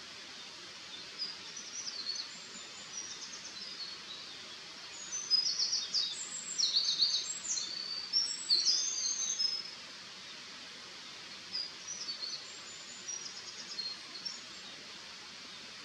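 Eurasian wren singing: a loud, rapid song of high trills and warbles lasting about four seconds mid-way, with fainter high phrases before and after, over a steady hiss.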